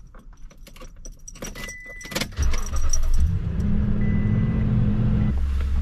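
Keys jangling and clicking, a short electronic chime, then a truck engine starts about two seconds in and keeps running at a steady idle.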